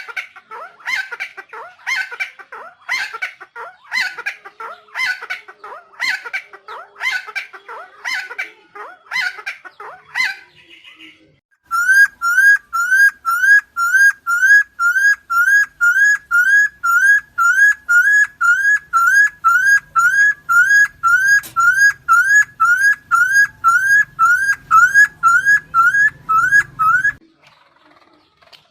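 Helmeted friarbird calling, harsh notes repeated about once a second for the first ten seconds. After a short pause comes a long, even series of rising whistled notes, about two a second, which stops shortly before the end.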